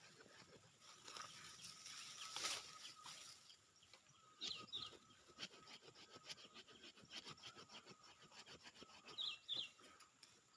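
Faint, irregular scraping and rubbing of a hand tool working soil and roots while digging out a serut shrub, with one louder scrape about two and a half seconds in. A bird calls twice with a quick pair of high chirps, about four and a half and nine seconds in.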